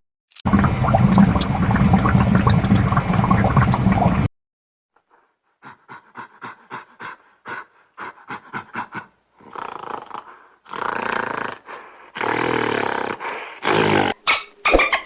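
Animal calls: one loud, rough call lasting about four seconds, then after a short pause a run of short rapid calls that give way to longer calls near the end.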